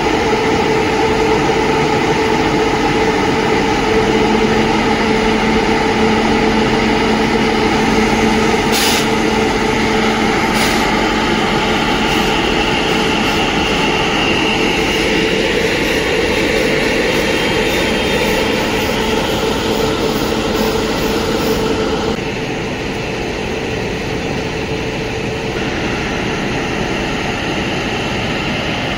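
Passenger train running on the track: a loud, steady rumble and rattle with a held whine, two sharp clicks about nine and eleven seconds in, and a slight drop in level a little past twenty seconds.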